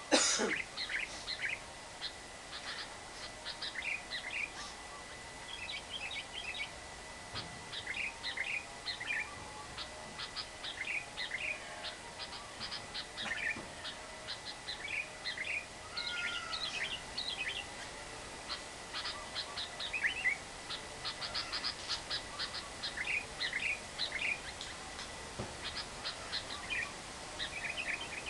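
Lovebirds chattering: short clusters of rapid, shrill chirps and clicks repeating every second or so, with a loud shrill call right at the start. A faint steady high tone runs underneath.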